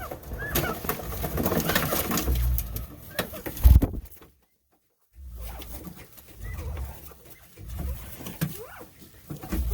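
Poultry calling softly: short gliding coo-like notes among rustling and knocks. The sound cuts out completely for about a second partway through, then the calls resume.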